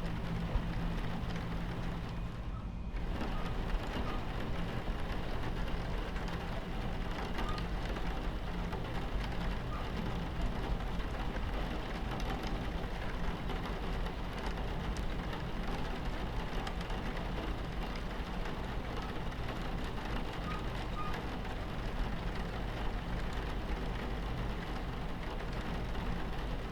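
Steady rain on a train window over the low rumble of a train running on its tracks. The rain thins briefly about three seconds in.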